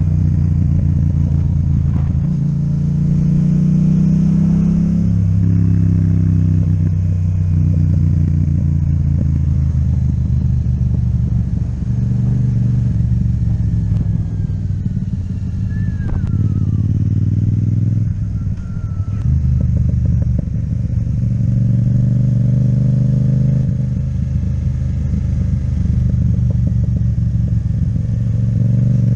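Yamaha MT-07 parallel-twin engine with an Akrapovic exhaust running under way. Its note holds steady, steps to new pitches several times, and eases off briefly about two-thirds of the way through before picking up again.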